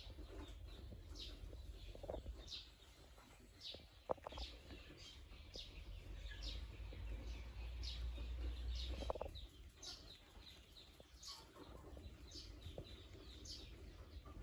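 A small bird chirping over and over, each call a short, high, falling note, with a low rumble underneath.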